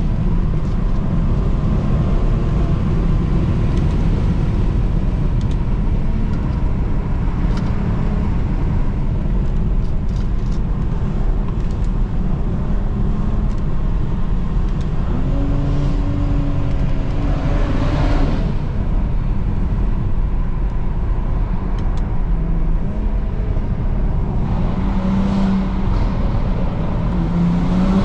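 Straight-piped 2009 BMW 335i's twin-turbo 3.0-litre inline-six under way, a steady engine drone. It revs up twice, about halfway through and again near the end.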